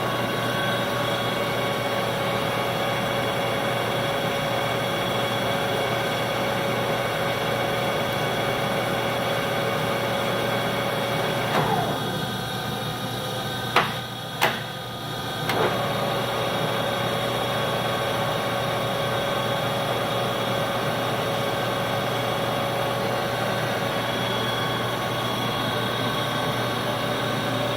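A lathe running with a steady machine whine. About halfway through, the tone slides down and drops away for a few seconds, with two sharp clicks, then the steady running comes back.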